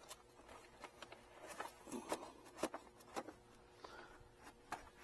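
Scattered light clicks and knocks, as of small objects being handled, over a faint steady hum.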